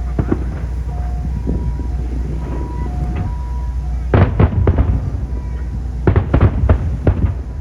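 Aerial fireworks shells bursting with sharp bangs and crackle: one just after the start, a cluster about four seconds in and a rapid string near the end, over a steady low rumble.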